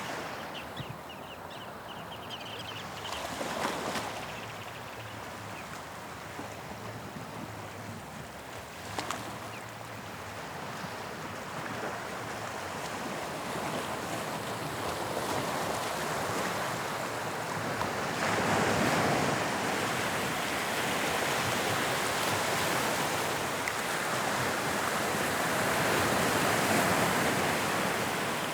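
Sea waves breaking and washing on the shore of the English Channel. The surf is softer at first, with a couple of short splashes, then grows louder and fuller about two-thirds of the way in.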